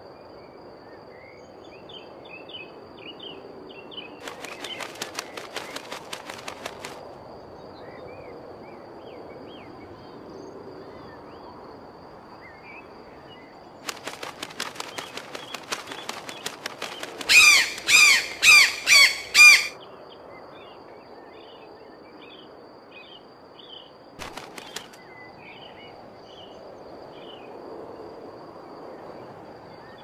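Bird wings flapping in short runs of rapid beats, with small birds chirping in the background. About two thirds of the way through, a bird gives a run of about six loud calls in quick succession, the loudest sound here.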